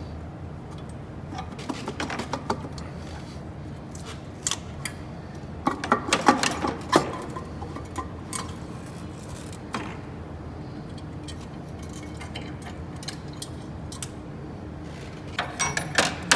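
Metal hand tools and small engine parts clinking and clanking as they are handled, in scattered bursts of sharp clicks over a steady low hum.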